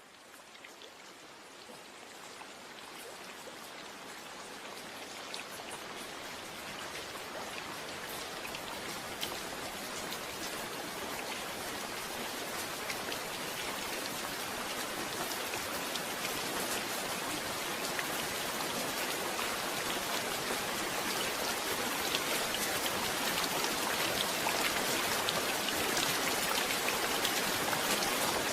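Steady rain falling, with many separate drops pattering on surfaces over a continuous wash. It fades in, growing gradually louder throughout.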